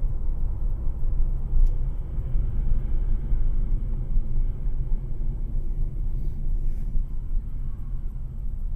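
Steady low rumble of a car driving: engine and road noise, with no sudden impacts.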